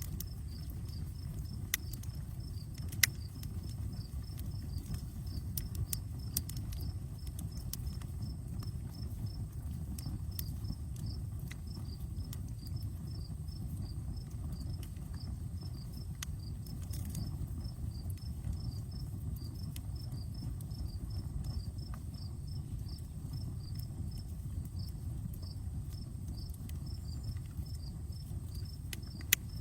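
Outdoor campfire burning with a low steady rush and scattered sharp crackles and pops, the loudest about three seconds in and near the end. A cricket chirps in an even, regular rhythm.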